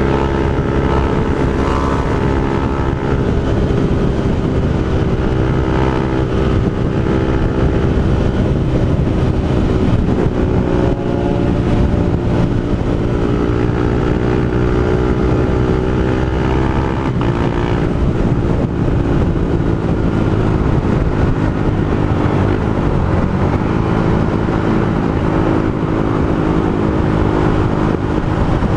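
Honda CG Fan 160's single-cylinder engine running through an aftermarket Pro Tork GP Competition exhaust while riding, its note drifting slowly up and down with the throttle. About two-thirds of the way through the pitch dips and climbs back again.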